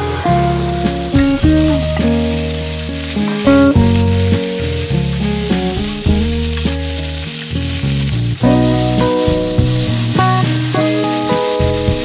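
Asparagus and minced garlic frying in hot oil in a wok: a steady sizzle as they are stirred with chopsticks. Background music with a melody of changing notes over a bass line plays along.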